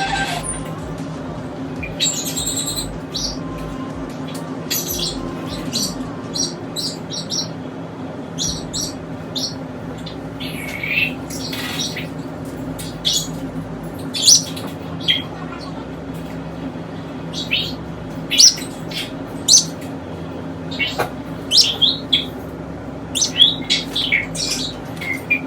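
Small pet parrots chirping and calling in short, sharp chirps, many in quick succession, over a steady low hum.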